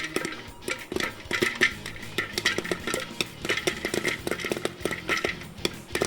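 Popcorn kernels popping fast in a Dash electric stirring popcorn popper: many irregular sharp pops in quick succession at the height of popping.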